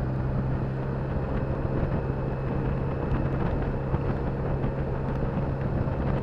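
Motorcycle engine running at a steady speed while riding, with a steady hum and wind and road noise.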